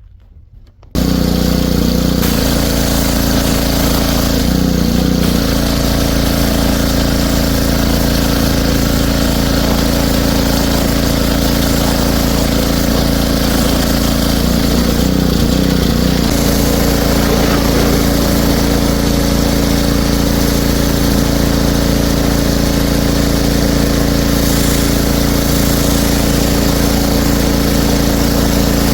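Pressure washer running steadily. It starts abruptly about a second in and holds an even, loud drone.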